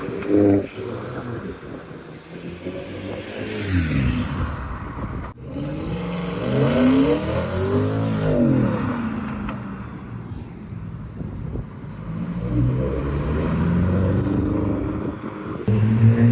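Modified cars accelerating away one after another, engines revving up and falling back as each passes, with a louder engine close by near the end.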